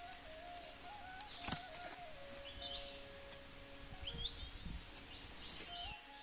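Birds chirping in short rising calls over a steady high hiss, with soft background music holding long, slowly changing notes. There is one sharp snap about a second and a half in.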